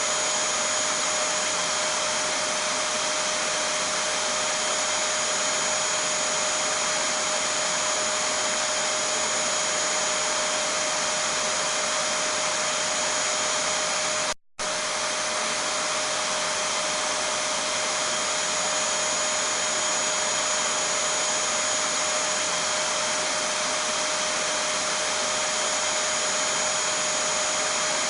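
Vacuum cleaner running steadily, an even whooshing hum with a fixed whine on top. It cuts out for a split second about halfway, then carries on unchanged.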